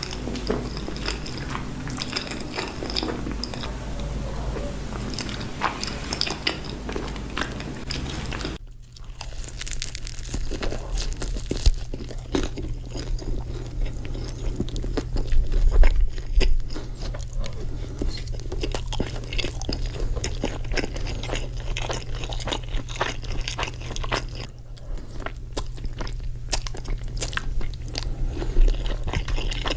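Close-miked chewing and biting of creamy pasta, with many sharp mouth clicks and crunchy bites. About nine seconds in, the sound switches abruptly to another eater's recording, with a low steady hum beneath.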